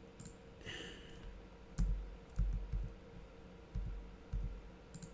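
Computer mouse clicks and keyboard taps: a handful of sharp, irregular clicks, several with a dull thump of the desk beneath them.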